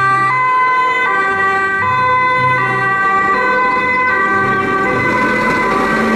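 Toy fire truck's electronic siren sound, starting suddenly and loud. It plays stacked electronic tones that jump between pitches about every half second.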